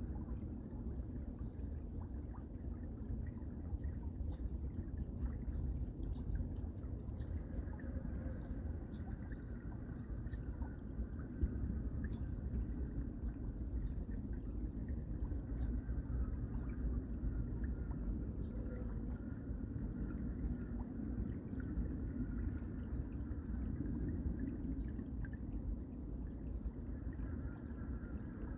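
Water running steadily, a continuous pouring and trickling as of a shallow stream.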